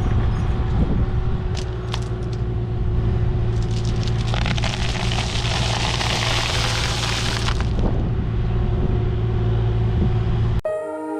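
A diesel engine of a piece of digging equipment runs steadily, with a few sharp clicks early and a loud noisy rush for about four seconds in the middle. The sound cuts off abruptly near the end into soft background music.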